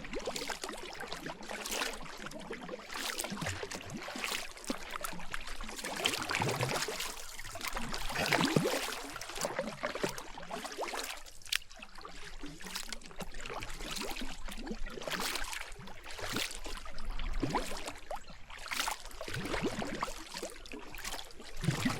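Kayak paddle strokes in river water: the blades dip and pull with splashing and trickling, swelling in a loose rhythm about every two to three seconds.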